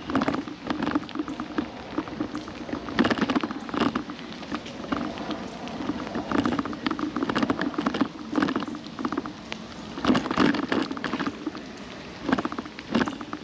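Rain pattering, heard as irregular clusters of short, sharp taps over a steady wash of noise.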